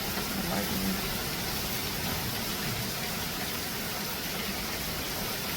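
Heavy rain pouring down in strong wind, a steady rushing noise.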